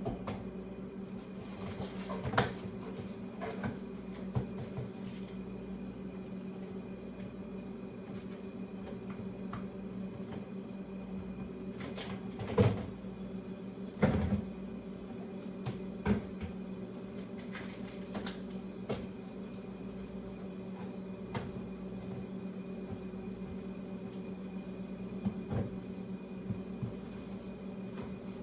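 Scattered clunks and knocks of containers and shelves being moved about in a crowded refrigerator, the loudest two close together around the middle, over a steady low hum.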